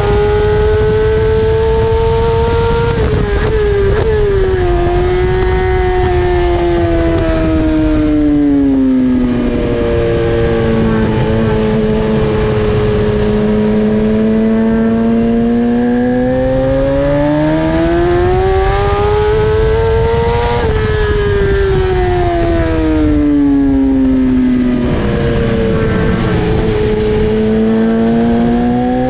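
BMW S1000RR inline-four engine at racing speed, its pitch dropping through a few quick downshifts about three seconds in and falling under braking. It then holds low through a corner, climbs hard under acceleration and drops again about twenty seconds in. It is rising once more near the end, all over heavy wind noise on the microphone.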